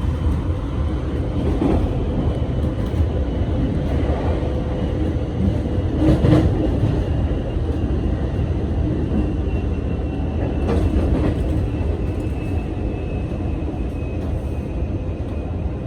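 Local train running along the line, heard from inside the carriage: a steady rumble with a few knocks of the wheels over rail joints, the loudest about six seconds in.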